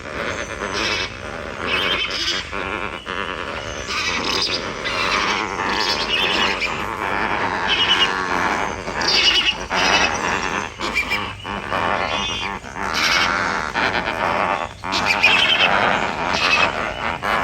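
A flock of lesser flamingos calling together: many overlapping calls forming a dense, continuous chorus that swells and dips in loudness.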